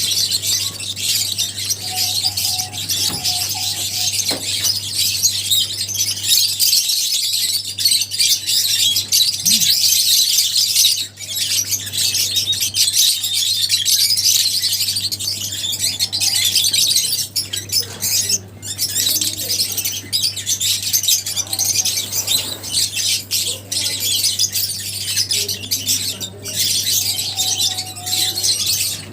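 A flock of lovebirds chattering and squawking continuously, many high-pitched chirps overlapping, with a steady low hum underneath.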